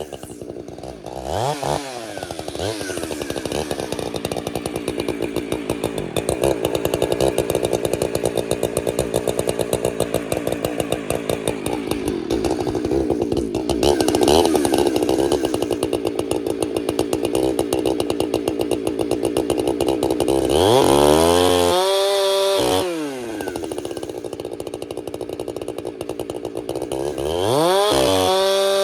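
Two-stroke gas chainsaw bucking a dead pine log into firewood, running steadily under load through the cut. Near the end the engine revs up and drops back twice.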